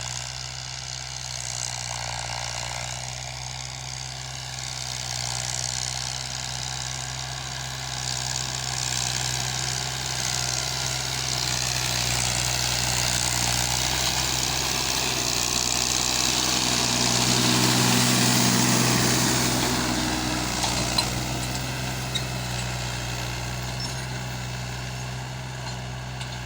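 Fiat 480 tractor's diesel engine running steadily under work, growing louder towards about eighteen seconds in and then easing off.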